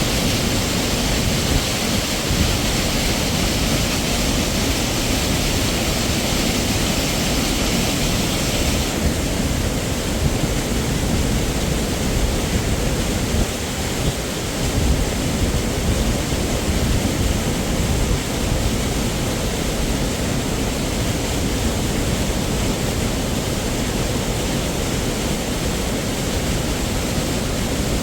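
Waterfall water crashing and rushing as a steady, loud roar, with a deep low rumble; the upper hiss falls away abruptly about nine seconds in.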